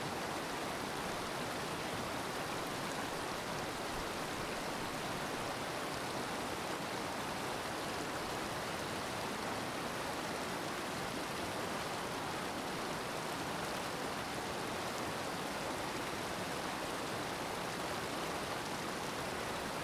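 Steady rush of falling water from a waterfall, an even unbroken noise.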